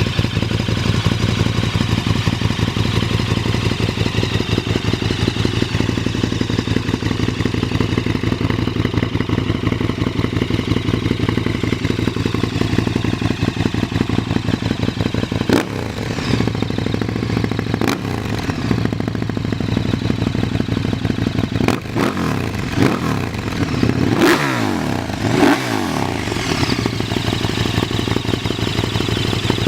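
KTM 1290 Super Duke R's V-twin idling loud through an aftermarket Arrow exhaust, with an even, lumpy beat. From about halfway through, the throttle is blipped several times, each a quick rise in revs that falls back to idle.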